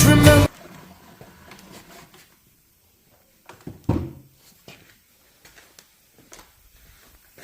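Background song cuts off about half a second in; then scattered light clicks and knocks, the loudest a pair of knocks about four seconds in, like a small tool box's lid or drawer being handled.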